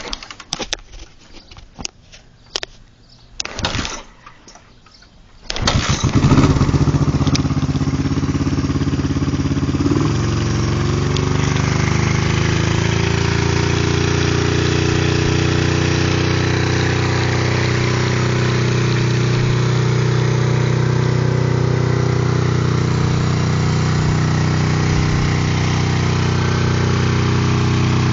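1971 Honda CB350's parallel-twin engine being kickstarted: a few clicks and knocks from the kick lever, then the engine catches about five seconds in. Its pitch rises and falls for a few seconds before it settles into a steady idle.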